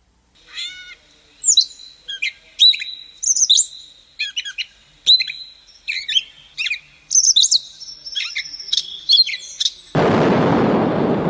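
Gray catbird song: a long, jumbled run of varied squeaky chirps, slurred notes and whistles. About ten seconds in, a loud rushing noise takes over for about two seconds.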